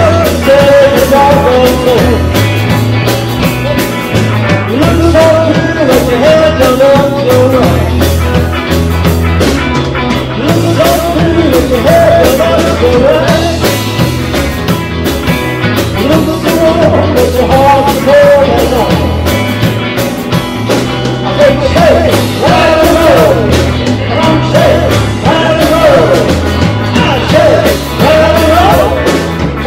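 Live rock and roll band playing, with a steady bass and drum beat under a bending lead melody line.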